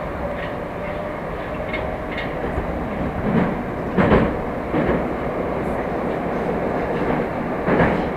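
Moscow Metro "Moskva" electric train running between stations, heard inside the car: a steady rumble of wheels on rail with a few sharp knocks as the wheels cross rail joints, the loudest about four seconds in and near the end.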